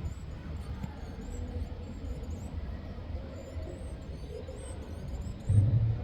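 Steady low rumble of distant traffic with faint, thin, high bird chirps scattered over it. A loud low thump comes about five and a half seconds in.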